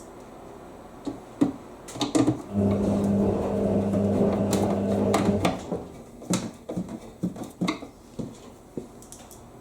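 An electric screwdriver runs steadily for about three seconds, driving a screw back into a tumble dryer's door assembly, with light plastic clicks and taps before and after it.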